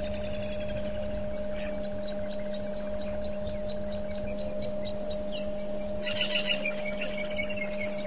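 Wild birds calling: a quick run of short, high chirps about four a second, then a louder call that slides downward about six seconds in, over a steady low hum.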